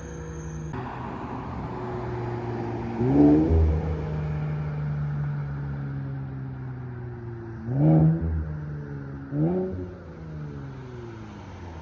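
Infiniti Q60 engine through a muffler- and resonator-deleted exhaust, revving up sharply three times, about three, eight and nine and a half seconds in, its pitch sliding back down between the revs.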